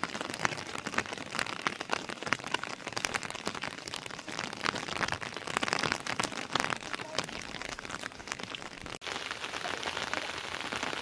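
Heavy rain falling, a steady hiss thick with sharp drop hits on nearby surfaces. It cuts out for an instant about nine seconds in, then carries on a little more evenly.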